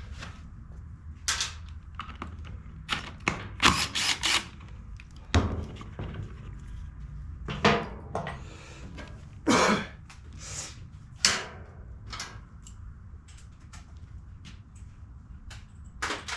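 Workshop handling noises: a string of separate knocks, clicks and clatters, as of tools and small-engine parts being picked up and set down on a workbench, over a steady low hum.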